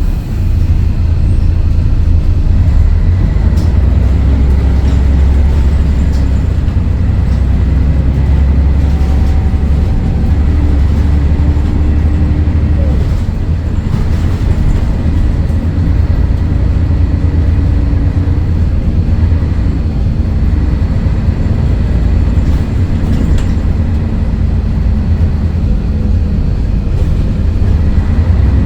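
Scania DSC11 six-cylinder diesel engine of a Scania L113CRL bus running under way, a loud low drone. It is heaviest in the first half and eases off about halfway through.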